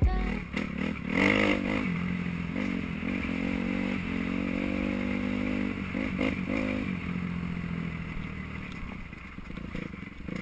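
Kawasaki KX250F dirt bike's single-cylinder four-stroke engine revving up and down while riding, with a few knocks, getting quieter near the end.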